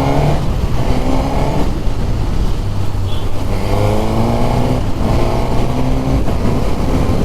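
Suzuki Katana's inline-four engine, derived from the 2005 GSX-R1000, under hard acceleration. Its pitch climbs and drops back several times as the rider shifts up through the gears.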